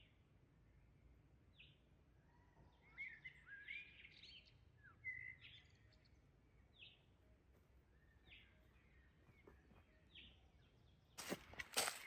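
Faint wild birdsong: a bird repeats short high calls about every second and a half, with a brief burst of fuller song a few seconds in. Near the end, loud crackling rustles begin, like movement through dry leaves and twigs.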